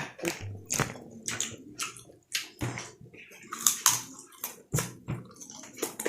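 Irregular rustling and crackling with scattered clicks: the fried banana-leaf chicken being handled, opened up and pulled apart by hand.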